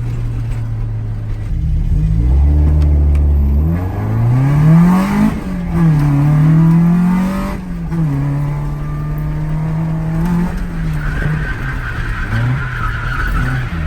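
Toyota AE86's 3S-GE BEAMS four-cylinder engine revving up and down on a drift run, its pitch climbing and dropping several times, with tyres squealing in the last few seconds.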